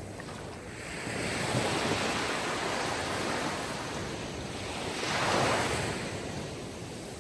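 Sea surf: waves wash in and break, one swelling about a second in and a louder one about five seconds in, then the wash dies away.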